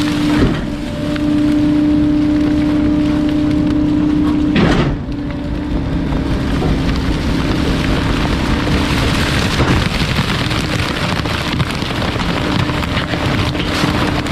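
Bulky-waste truck's compactor crushing a load with a steady hydraulic hum, over a dense crackling and creaking of material breaking; a thump near the start and another about five seconds in, after which the hum drops and the crushing noise grows.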